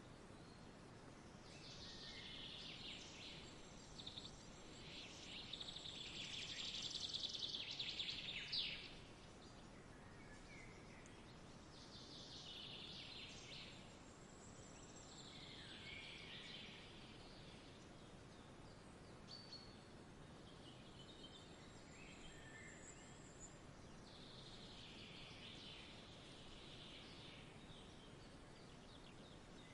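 Faint outdoor nature ambience: a steady low background hiss with several birds chirping and singing in bouts, loudest a few seconds in and again near the middle and end.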